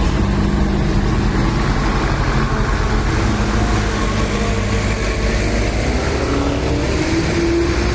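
Loaded sugarcane haul trucks running past, engines rumbling steadily. One engine rises in pitch over the last two seconds as it accelerates.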